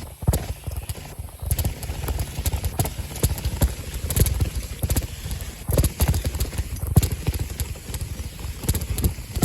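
Bicycle ride recorded on the move: a constant low wind rumble on the microphone with irregular clattering knocks, several a second, as the bike jolts over rough ground.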